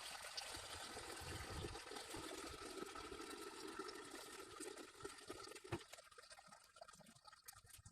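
Old engine oil trickling out of the sump drain hole of a Mercedes-Benz M111 four-cylinder engine during an oil change, a faint steady pouring stream that thins and quietens after about six seconds as the sump empties.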